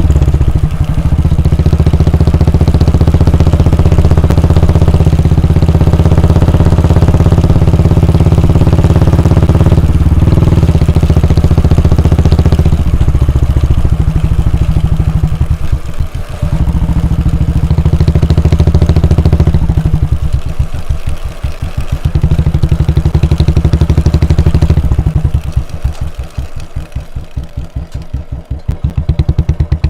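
Royal Enfield Bullet 350's 349 cc air-cooled single-cylinder engine and exhaust running loud and steady for about a dozen seconds. It then eases off several times, and in the last few seconds the single-cylinder thump is heard as separate, evenly spaced beats at low revs.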